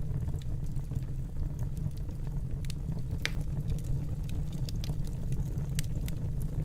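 Wood fire burning in a fireplace: a steady low rumble of the flames with scattered sharp crackles, one louder pop about three seconds in.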